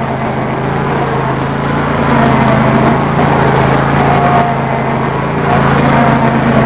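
Craftsman LT2000 lawn tractor engine running steadily at a constant pitch while the tractor sits stuck in deep snow.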